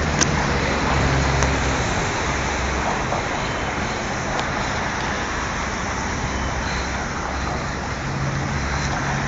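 Steady city street traffic noise from passing road vehicles, with a low engine hum that comes and goes.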